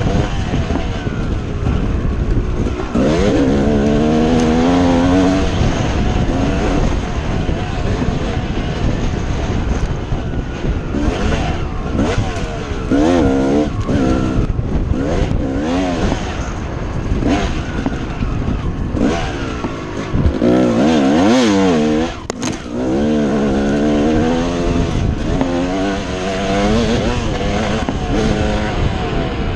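Dirt bike engine being ridden hard, revving up and down again and again so its pitch keeps rising and falling, with a heavy rumble underneath. About two-thirds of the way through the engine note drops out for a moment, then picks up again.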